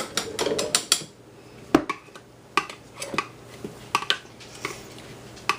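Kitchen utensils and dishware clinking and knocking as they are rummaged through: a quick cluster of clicks in the first second, then single knocks scattered through the rest.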